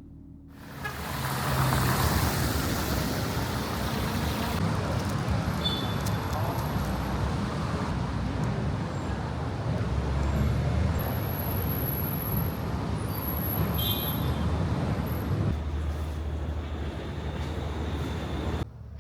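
Steady city street traffic noise: a continuous rumble of passing vehicles with a few brief high-pitched squeals around the middle. It cuts in about a second in and cuts off abruptly near the end.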